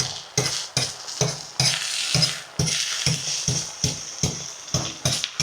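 Eggs being beaten by hand in a bowl, a utensil striking the bowl about twice a second in a slightly uneven rhythm, before they go into the hot pan.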